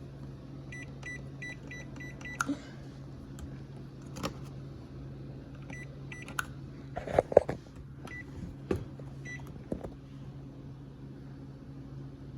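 GE dishwasher control panel beeping with short high beeps as its buttons are pressed: a quick run of beeps near the start, more about 6 s in, and single beeps later. Sharp taps and knocks come in between, the loudest a pair about 7 s in, over a steady low hum.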